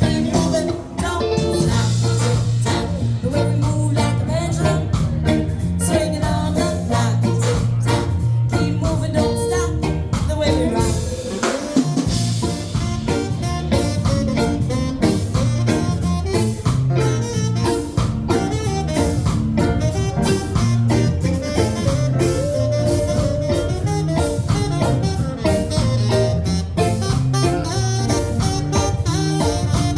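A live band playing a song on guitar, bass and drum kit, with a steady bass line; the bass and drums drop out briefly about twelve seconds in.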